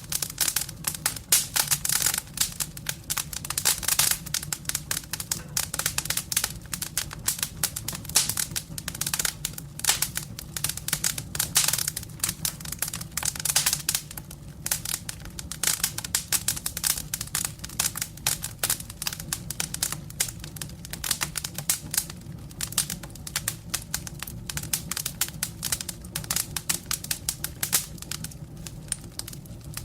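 Firewood burning in a fireplace, crackling with a dense, irregular run of sharp pops and snaps over a low steady rumble of the flames.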